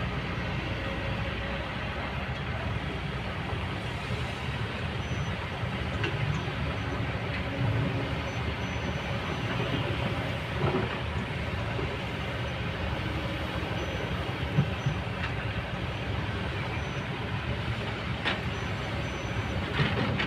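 Kobelco excavator's diesel engine running steadily while working, with a few short sharp knocks, the loudest about fourteen and a half seconds in.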